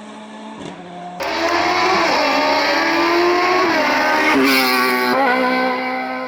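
Racing car engine at high revs, pitch falling and climbing several times as it shifts through the gears. The first second is a quieter, steady engine note, then the loud engine cuts in suddenly.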